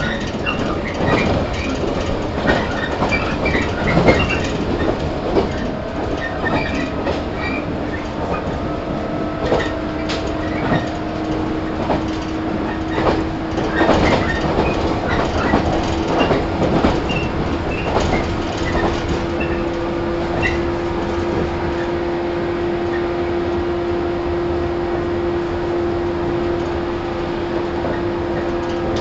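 JR 115 series electric train running at speed, heard inside the motor car: rumble with irregular clacks and knocks from the wheels over the track. A steady whine sets in about six seconds in and holds, while the clacks thin out in the second half.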